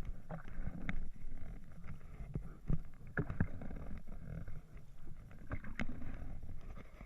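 Canoe on the move on a river: a steady rush of water and wind noise, with a few sharp knocks.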